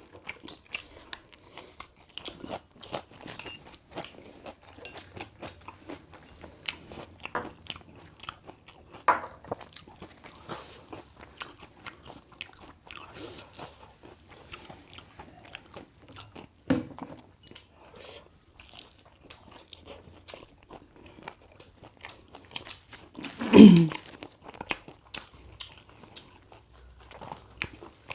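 Close-miked eating: a person chewing and crunching food, with many small wet mouth clicks. There is one louder, lower sound about two-thirds of the way through.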